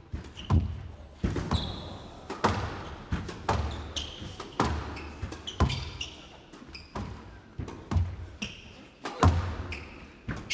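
A squash rally: the ball is struck by rackets and smacks off the walls with sharp hits about once a second, with short high squeaks of players' shoes on the court floor between the shots.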